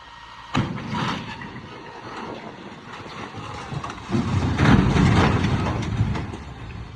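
Road vehicle noise, with a sudden sharp bang about half a second in and a louder, heavier stretch of noise from about four to six seconds.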